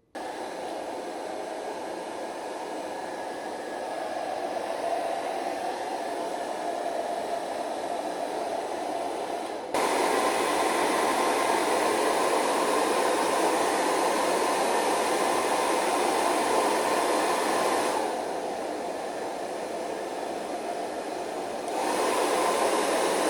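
Hair dryer blowing, switching on abruptly and stepping between louder and quieter settings a few times.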